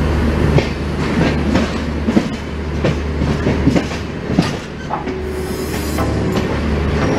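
Amritsar Shatabdi Express passenger train running, a steady low rumble with irregular clattering knocks as the wheels pass over rail joints and points.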